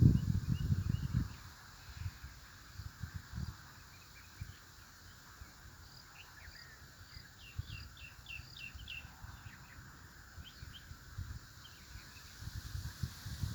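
Small birds chirping outdoors: quick high twittering notes, with a busier run of calls around the middle. Low rumbling thumps at the start and again near the end.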